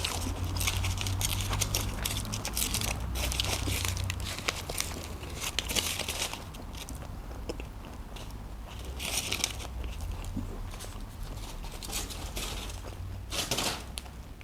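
Close-miked eating of a cheeseburger: bites and wet chewing with irregular clicks and crunches, dense for the first several seconds, then sparser with a few louder bites later on.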